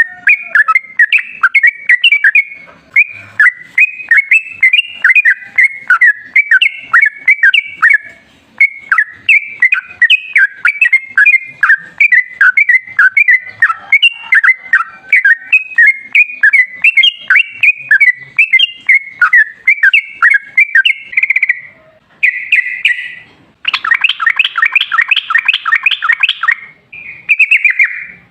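Yellow-vented bulbul (trucukan) singing a long, fast, chattering run of short bubbly notes. Near the end it breaks into a brief rapid rattling trill and a few short phrases.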